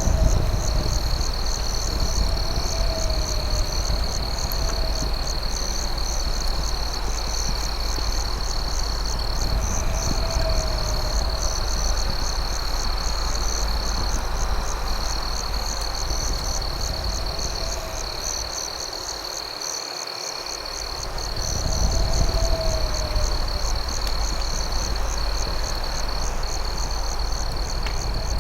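Night chorus of crickets: a steady high trill with fast pulsing chirps above it. A lower, wavering call repeats every two to three seconds over a low rumble that fades briefly about two-thirds of the way through.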